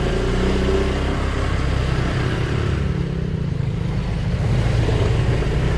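Motorcycle engine running steadily while being ridden. It eases off briefly about three seconds in, then picks up again.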